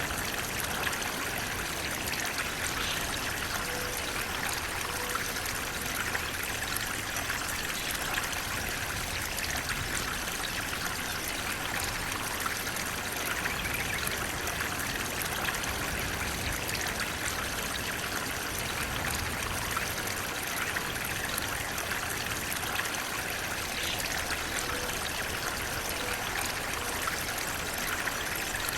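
Water flowing steadily in a stream, an even rushing splash that does not change.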